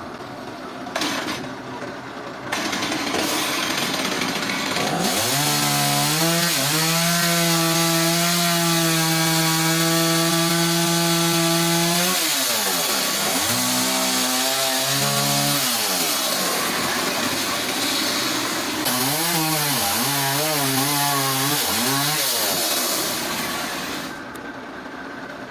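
A motorised saw cutting through a large log, starting about two seconds in and stopping near the end. Its engine tone sags and recovers three times as the cut loads and eases.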